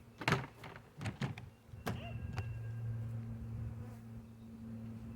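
Honey bee swarm buzzing, a steady low hum of thousands of wings, with a few short, sharp louder sounds in the first two seconds.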